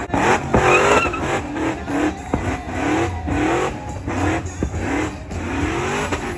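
Car engine revving over and over in a run of short rising sweeps, with a louder warbling rev in the first second.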